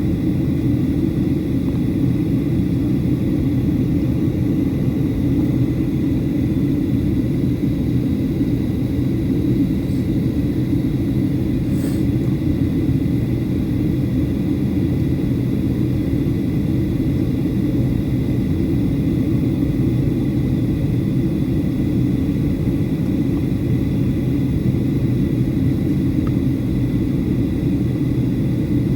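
Steady cabin rumble of a Boeing 737-800 in flight on descent: its CFM56-7B engines and the airflow over the fuselage, even and unchanging, with a faint high whine above it.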